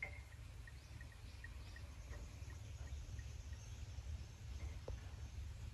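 Quiet outdoor ambience: a bird repeats a short high note several times a second, the notes slowing and fading out about three seconds in, over a low steady rumble.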